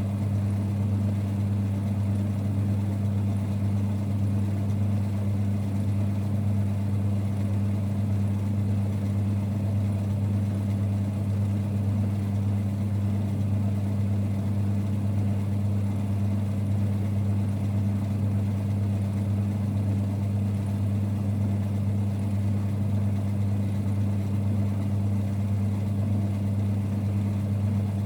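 1946 Boxford lathe running steadily, a low even hum and rumble that does not change.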